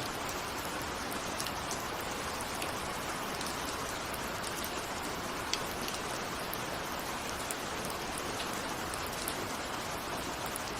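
Steady rain, with single raindrops ticking sharply here and there against the steady patter.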